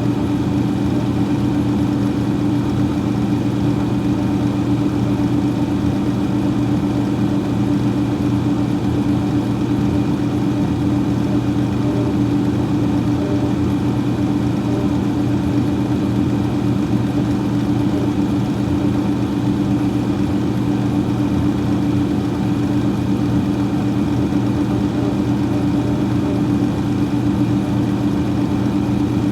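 Freezer fan running with a steady hum over an even whir of moving air, unchanging throughout.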